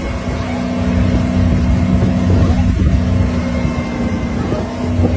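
Safari jeep's engine running steadily, with a few brief knocks and rattles over it.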